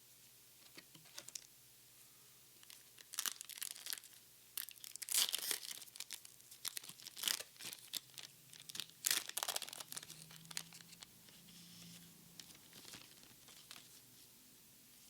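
The foil wrapper of a Japanese Pokémon card booster pack being torn open and crinkled: a run of sharp tearing and crackling rustles, loudest in the middle and thinning out to softer rustling near the end.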